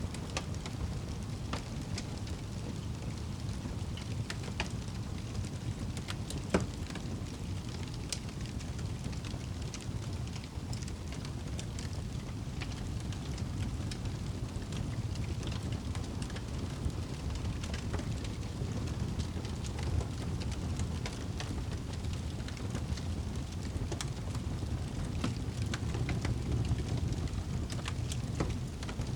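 Wood fire burning in a fireplace: a steady low rumble of flame with scattered crackles and pops, one louder pop about six seconds in.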